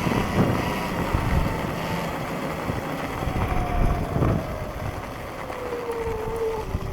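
Sur-Ron electric dirt bike's motor whining as it rides, the whine falling slowly in pitch as the bike slows, over a rough rumble with occasional thumps and wind on the microphone.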